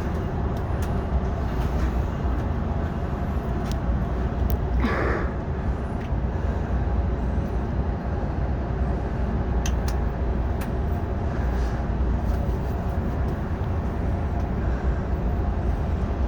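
Diesel locomotive idling, a steady low rumble with a faint hum that neither rises nor falls.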